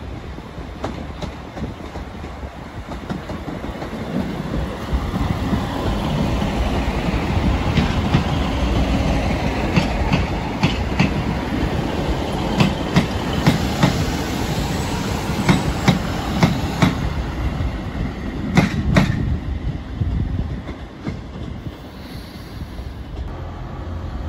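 Northern Class 150 Sprinter diesel multiple unit passing close, its diesel engine running. The wheels click repeatedly over rail joints and points from about eight to nineteen seconds in, and the sound builds as the train comes near, then fades as it goes by.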